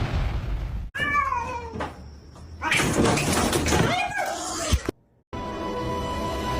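Domestic cat meowing: one falling meow about a second in, then more meows around three and four seconds in over room noise. Music with steady tones takes over after a short gap a little past five seconds.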